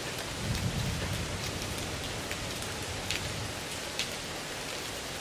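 Steady rain-like hiss with a few scattered drop-like ticks: an added background-noise track simulating poor listening conditions in an exam hall.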